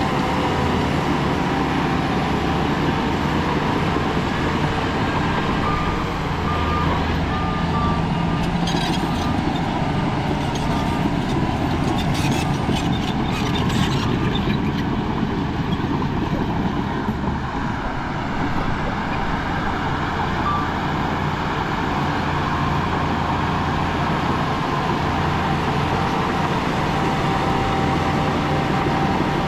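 Heavy diesel earthmoving machinery running steadily. A few short beeps sound about seven to nine seconds in, and there is clattering from about nine to fourteen seconds in.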